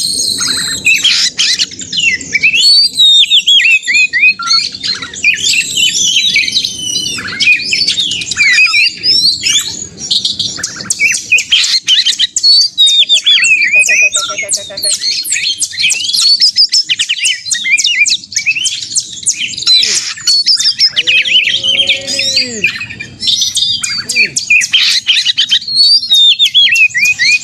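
Oriental magpie-robin (kacer) singing loudly and without a break: a fast, varied run of whistles, trills and harsh chattering notes. This is the aggressive 'narung' fighting song.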